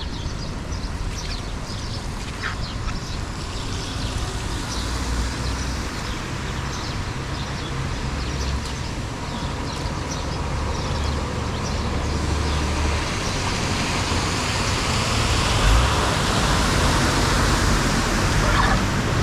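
Flood water rushing and gurgling into a street drain, growing louder about two-thirds of the way through, over a low rumble.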